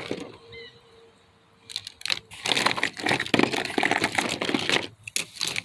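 Toys and packaging being handled and sorted on a table: dense rustling and crinkling with many light plastic clicks and knocks, starting after a quiet second or so.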